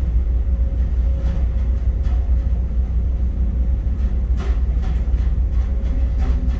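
Steady low drone of a towboat's diesel engines running, with a faint steady hum above it.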